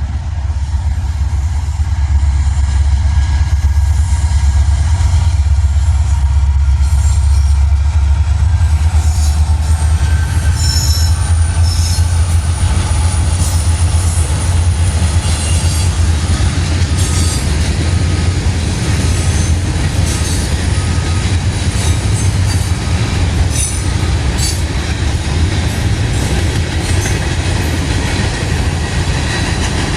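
Norfolk Southern mixed freight train passing close by. A deep diesel-locomotive rumble is loudest in the first half, then the cars roll past with high wheel squeal and repeated clicks over the rail joints.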